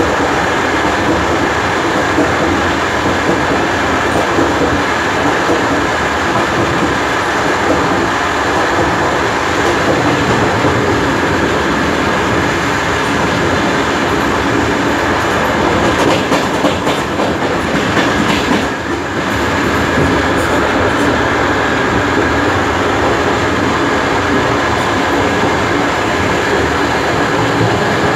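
DR1A diesel multiple unit running along the track: a steady rumble of the moving train, with wheels clattering over the rails. A run of sharper knocks comes about two-thirds of the way through.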